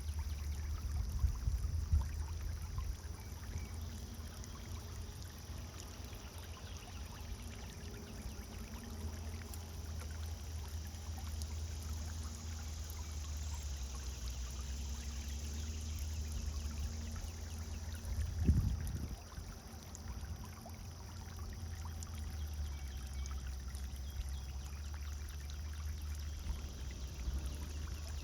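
Pond fountain splashing and pouring steadily into the water, over a low rumble, with one brief low thump about eighteen seconds in.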